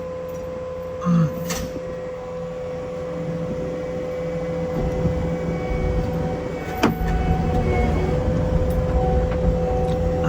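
Cat 299D3 compact track loader's diesel engine running steadily, picking up speed and load from about halfway through. A sharp clank comes about seven seconds in.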